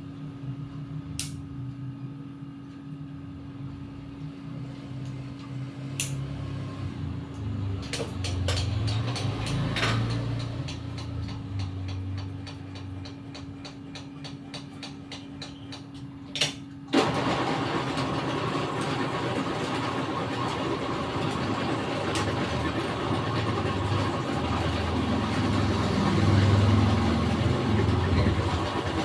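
Honda Vario scooter engine running, its low rumble rising and falling. A few sharp clicks come first, then at about 17 s the sound jumps suddenly to a louder, steady engine noise with a rushing hiss.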